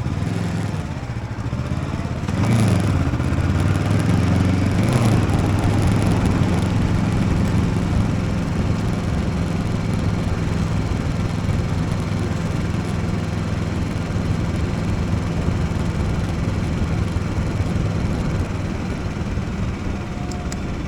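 Motorcycle engine running under way, its pitch swinging up and down twice in the first five seconds as it accelerates, then holding a steady pitch.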